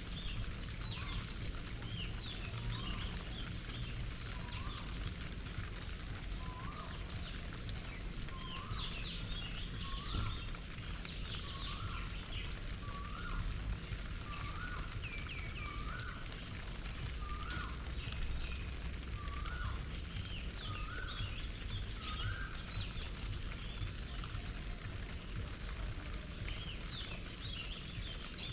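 Garden birds calling around a bird bath: one bird repeats a short, hooked call about every one and a half seconds, stopping a little after twenty seconds, while other birds chirp and twitter higher up, over a steady background hiss.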